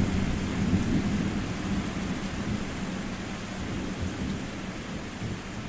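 Thunder rumbling low and slowly dying away after a loud peak, over steady rain.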